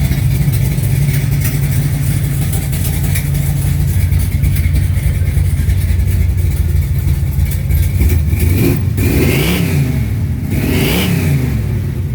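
Heavily cammed 440 big-block V8 in a 1969 Dodge Charger running at idle, then revved twice near the end, each blip rising and falling back to idle.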